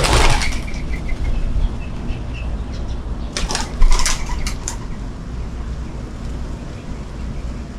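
Bird wings flapping: a flurry at the start and a second run of quick wingbeats about three and a half seconds in, as birds take off or land at a seed feeder.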